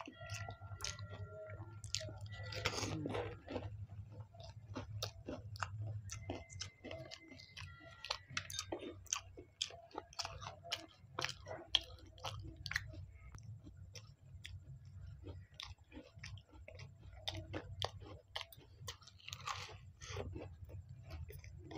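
Close-miked chewing of a samosa: many irregular crisp crunches and wet mouth clicks, over a low steady hum.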